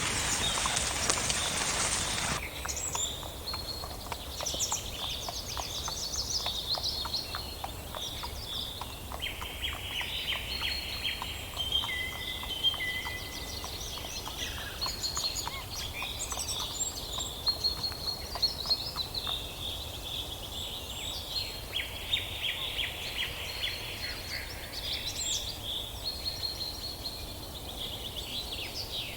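Several songbirds chirping and singing together in a busy, overlapping chorus of short trills and whistles over a low background hiss. It follows a couple of seconds of loud, steady noise that cuts off abruptly.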